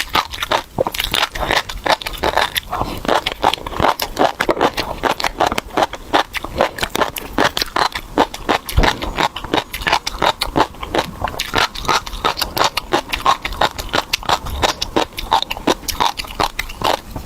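Close-miked mouth chewing tobiko (flying fish roe), with the tiny eggs popping and crunching in a dense, irregular run of crisp clicks.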